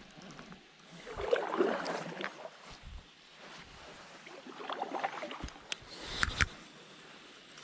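Water sloshing and splashing around a fishing kayak in two rough swells, followed by a few sharp knocks a little after six seconds.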